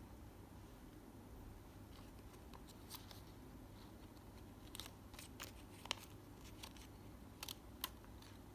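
Handling noise in a quiet room: a scatter of small, sharp clicks and taps, about seven, mostly in the second half.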